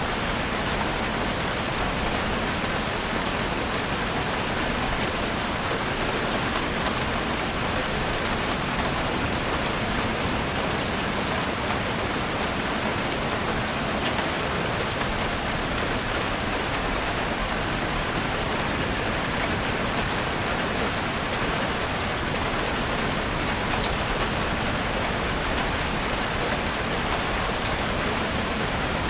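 Heavy rain drumming steadily on a roof, a dense even hiss with many small drop ticks.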